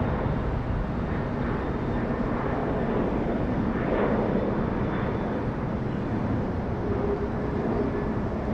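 Jet airliner engines running loud and steady, with a low drone under a broad rushing noise.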